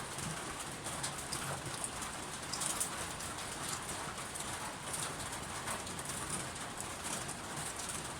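Steady rain falling, with many small drop ticks, and a dove cooing at times in the background.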